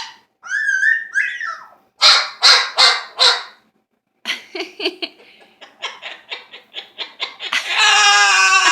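Pet bird imitating a dog's bark. Two short whistled calls come first, then four loud barks about two seconds in, then a run of quick clicking calls, and a loud, long, wavering call near the end.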